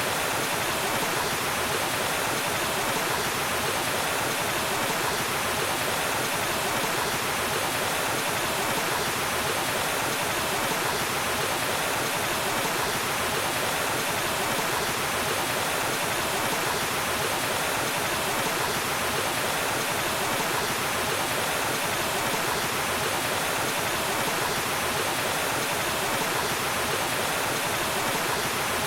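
Waterfall: water falling and rushing in a steady, even roar of white noise that does not change.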